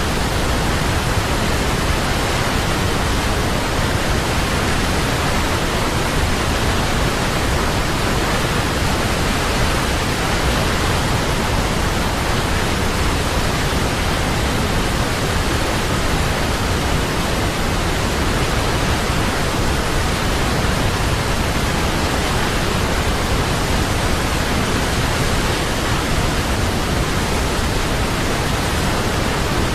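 Large waterfall: a loud, steady rush of falling water, even and unbroken throughout.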